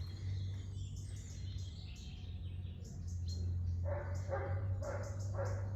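Birds chirping with short high twitters throughout. From about two-thirds of the way in, a lower call repeats quickly, about three times a second, over a steady low hum.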